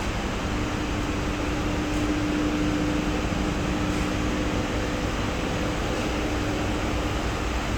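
Steady mechanical hiss with a low, even hum underneath, constant throughout.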